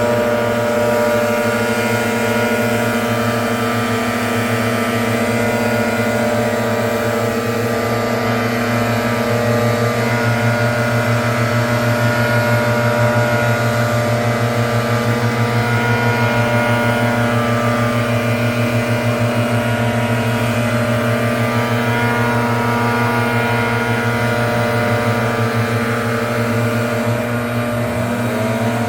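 Gas leaf blower running steadily at high throttle, a loud, even engine drone with a brief shift in pitch near the end.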